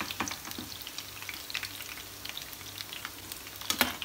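Marinated chicken pieces deep-frying in hot oil: a steady sizzle with scattered crackles and pops, and a sharper louder crack near the end.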